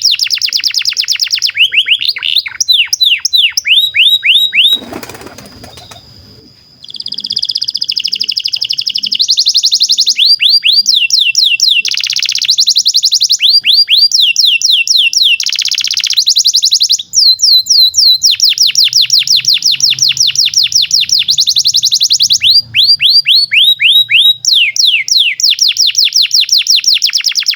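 Canary singing a long song: fast trills of repeated downward-sliding whistled notes, the speed changing from phrase to phrase. A short break about five seconds in holds a brief rustle.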